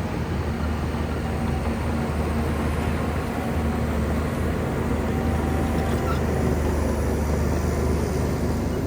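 Shantui bulldozer's diesel engine running steadily under load, a deep even rumble.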